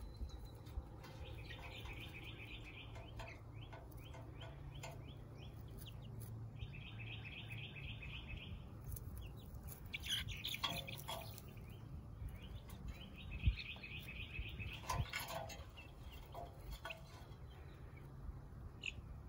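Birds chirping: three rapid trills of about two seconds each and a couple of louder calls, over a steady low hum.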